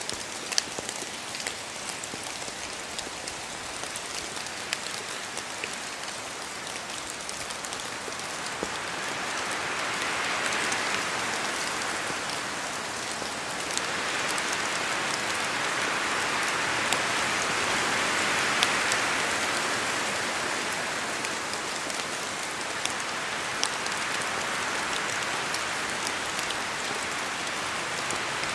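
Steady rain falling on forest trees, with scattered drips from the leaves, and gusts of wind swelling through the canopy about eight seconds in and again around the middle.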